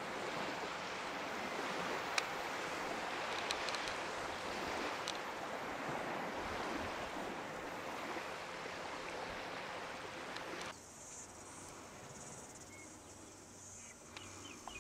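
Outdoor ambience: a steady rushing noise that cuts off abruptly about ten seconds in, leaving a quieter background with high insect chirping.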